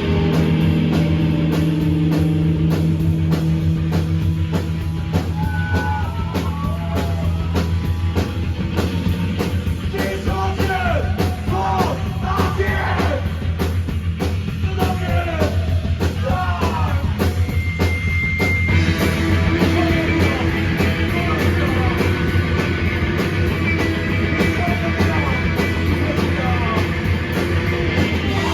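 Live punk rock band playing loud, with distorted guitar, a sustained bass and fast, steady drumming.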